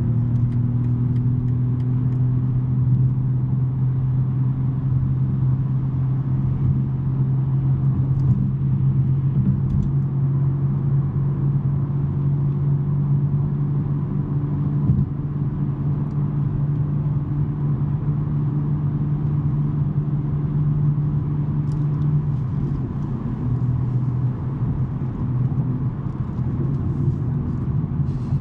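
BMW M3 G80's twin-turbo inline-six, fitted with a non-resonated J-pipe exhaust, droning steadily while the car cruises at a nearly constant engine speed.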